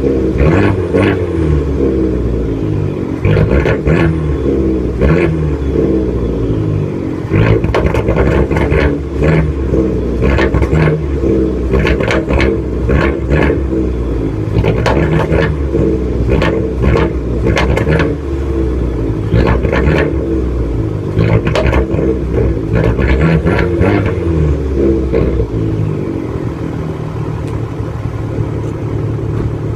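Fiat 500 Abarth's turbocharged 1.4-litre four-cylinder engine on its factory exhaust, blipped again and again in short revs with a growling, snarling note. It settles to a steadier idle near the end.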